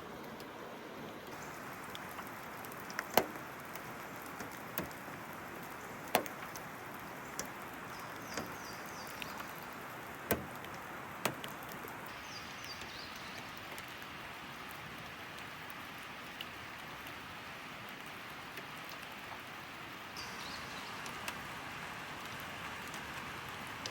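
Steady rain, with heavy drops now and then tapping sharply on a hard surface at irregular intervals. A few brief high chirps come through in small groups.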